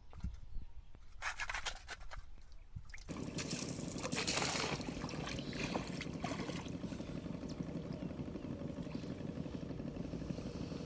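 Water splashing and trickling. About three seconds in, a steady rushing noise starts suddenly and keeps on.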